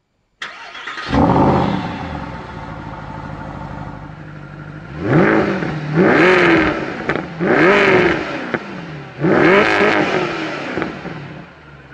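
A Mercedes-AMG V8 engine starts with a sharp bark and flare, then settles to a steady idle. From about five seconds in, it is revved four times in quick succession, each rev rising and falling in pitch, before it drops back to idle near the end.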